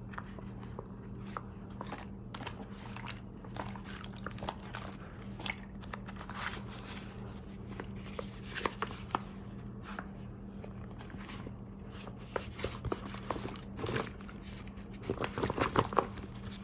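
Scattered small crinkles and clicks, thickest about halfway through and again near the end, over a steady low electrical hum.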